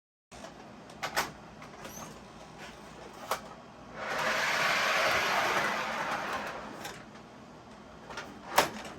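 Handling sounds from unpacking a boxed model train car: scattered light clicks and knocks, with a rustling, scraping noise that swells for about three seconds in the middle, like the car or its packaging being slid out of a cardboard box.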